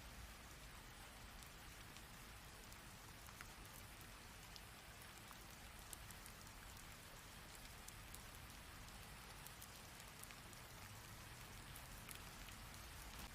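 Heavy rain falling: a steady, even hiss, with scattered single drops ticking sharply on a surface.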